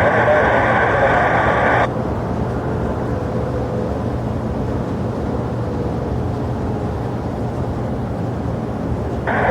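Steady, even rumble of jet aircraft engines at an airport. For about the first two seconds a narrow-sounding air traffic control radio transmission plays over it and cuts off abruptly; the radio comes back in just before the end.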